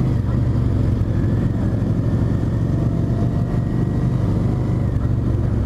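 Motorcycle engine running steadily, a constant low hum.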